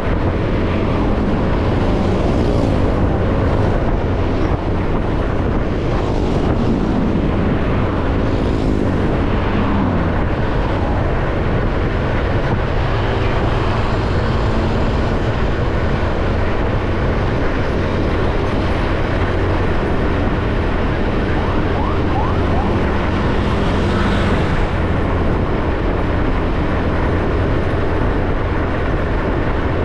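Motorbike riding along a road: the engine runs steadily under heavy, even wind and road noise, and its pitch shifts a little about a third of the way in.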